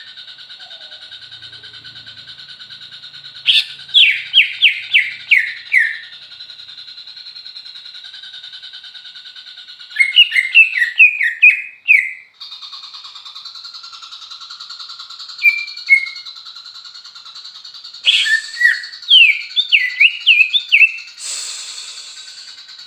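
Greater green leafbird (cucak ijo) singing in bursts of quick, downward-sweeping whistled notes, each phrase lasting a second or two and repeated several times, over a steady high-pitched background tone.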